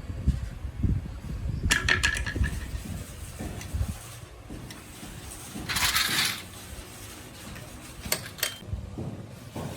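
Small metal objects clinking and being handled, with a few sharp ringing clinks about two seconds in and again near the end, and a short burst of hiss or scraping about six seconds in.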